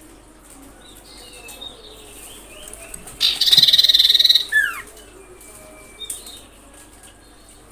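Common iora calling: soft whistled notes, then about three seconds in a loud, fast rattling trill lasting about a second, ending in a single whistle that falls steeply in pitch.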